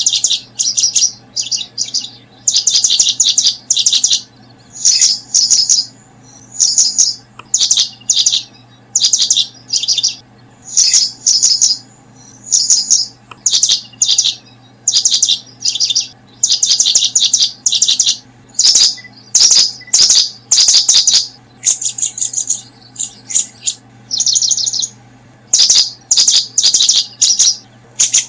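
Small bird chirping in quick, high-pitched bursts of rapid notes, one short burst after another almost without pause.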